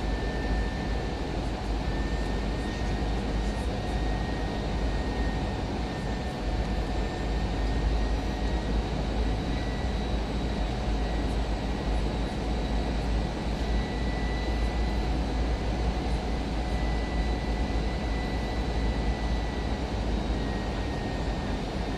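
Cabin noise inside an Airbus A319 airliner: a steady, deep rumble of engines and airflow with a thin, slightly wavering whine above it.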